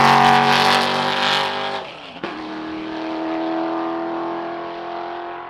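Racing sports car engine at high revs on track, loudest at the start. About two seconds in the revs dip briefly, a gear change, then hold steady as the sound slowly fades.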